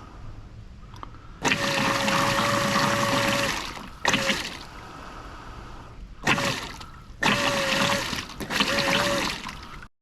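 Small 12-volt aerator pump running in water, its motor a steady whine under spraying and splashing. It starts about a second and a half in and runs for two seconds, then cuts in and out three more times, the last run the longest.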